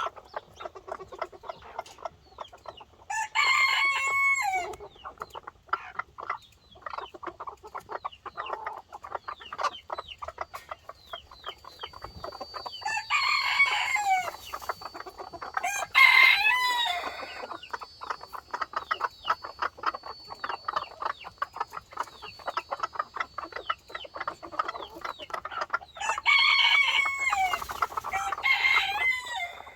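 Domestic fowl calling: steady clucking throughout, with several long crow-like calls, the first about three seconds in and the last near the end.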